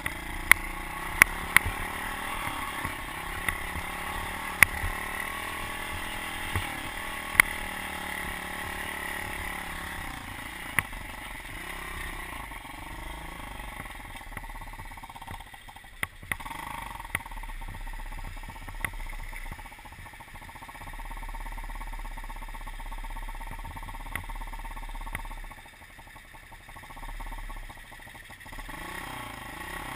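A pit bike's small engine running and changing pitch as the bike is ridden, with sharp knocks and clatter mostly in the first half.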